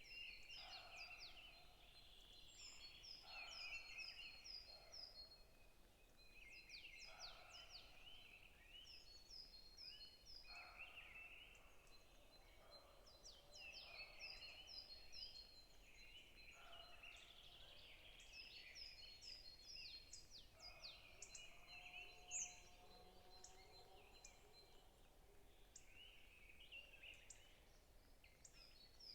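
Faint forest birdsong: several birds chirping and calling over one another, with quick runs of five or six high chirps recurring every few seconds and a thin, steady high tone underneath.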